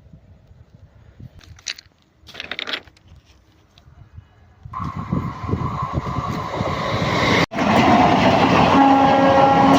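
A train passing close by, its rumble starting about five seconds in and growing loud, with the horn sounding near the end.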